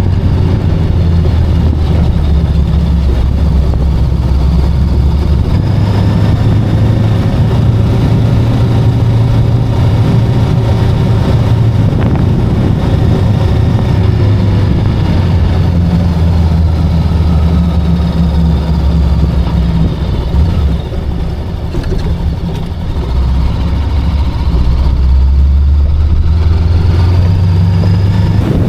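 Voge 525DSX parallel-twin motorcycle engine running under way with road and wind noise, heard from on the bike. The engine note eases off briefly about two-thirds of the way through, then picks up again.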